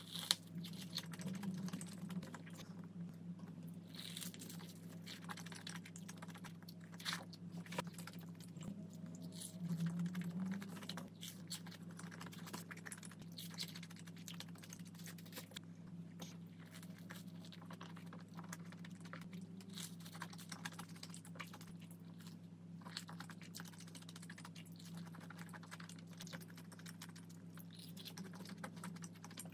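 Close-up eating sounds: a crisp breaded fried cheese ball bitten into, followed by steady crunching and wet chewing with many small crackling clicks. The sharpest crunch comes right at the first bite.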